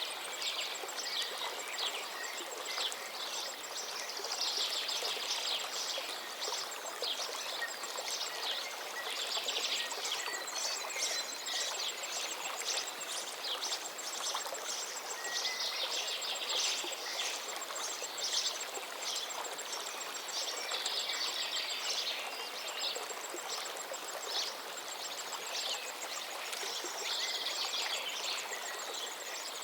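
A river's steady rushing flow with many small birds chirping and trilling over it.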